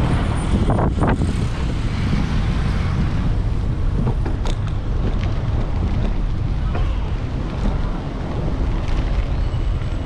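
Wind buffeting the microphone of a camera on a moving bicycle, a steady low rumble with city traffic underneath and a couple of brief clicks.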